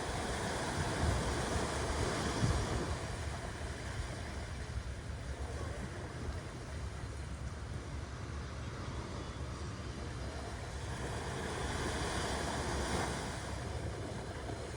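Ocean surf: a steady wash of waves that swells up in the first few seconds and again near the end, with a deep low rumble underneath.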